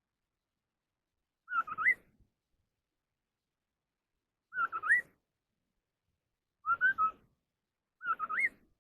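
A songbird known in Vietnam as the họa mi đất (ground hwamei) repeating a short, clear whistled phrase four times, about every three seconds, each phrase dipping and then rising sharply at the end.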